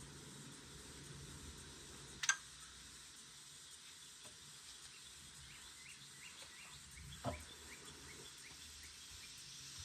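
Two sharp knocks about five seconds apart over a faint background, with a run of faint high chirps between them.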